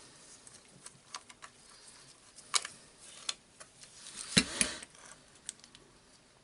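Scattered small clicks and taps of jigsaw parts being handled and fitted during reassembly, with a couple of louder knocks about four and a half seconds in.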